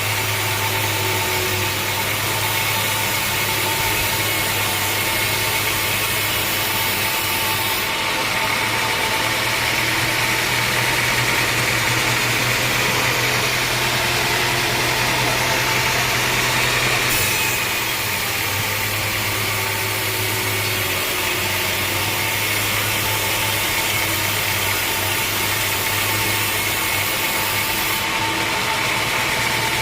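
A homemade band sawmill running steadily: a machine drone with a low hum under a high hiss, the hiss changing about halfway through.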